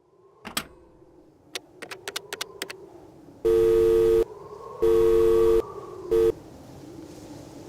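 A few sharp clicks, then a telephone's two-tone electronic call tone pulsing loudly three times: two long beeps and a third cut short.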